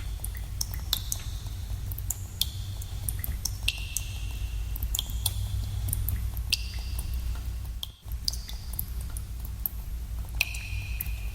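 Water drops falling at irregular intervals in a cave, each a sharp plink with a brief high ringing tone, over a steady low rumble. The sound dips out for a moment about eight seconds in.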